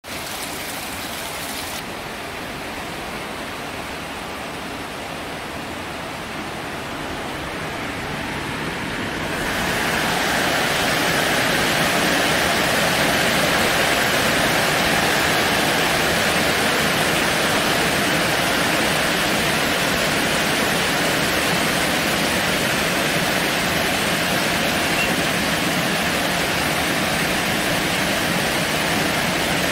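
Heavy rain pouring down in a storm, a steady hiss that grows louder about nine seconds in and stays heavy.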